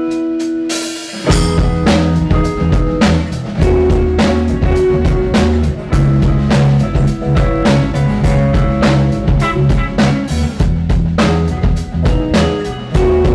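Rock band music: a ringing guitar chord, then about a second in the drum kit and a low bass line come in with a steady beat that runs on.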